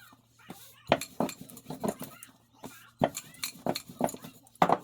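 Irregular clinks and knocks of kitchen utensils against bowls and dishes, a few a second, over a faint low steady hum. The loudest knock comes near the end.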